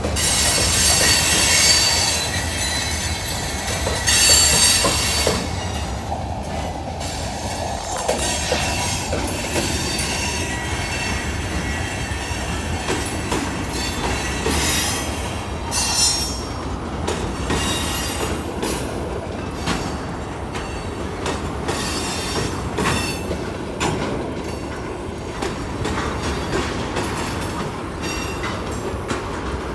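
Freight cars (covered hoppers, boxcars and tank cars) rolling past on the track with a steady rumble and clacking wheels. High-pitched wheel squeal comes and goes, strongest in the first few seconds and again about halfway through.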